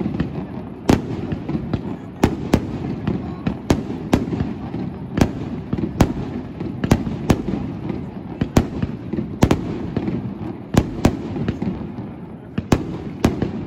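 Fireworks display: aerial shells bursting overhead in an irregular string of sharp bangs, roughly one to two a second.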